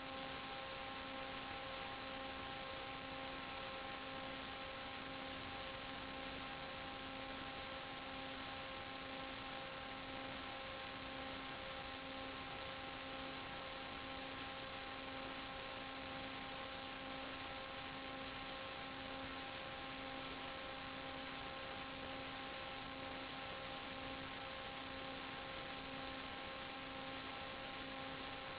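Steady electrical hum of several constant tones over an even hiss, the lowest tone pulsing gently, with no change throughout.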